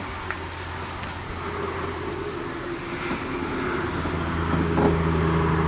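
A motor vehicle engine running steadily with a low hum, growing gradually louder as it draws nearer.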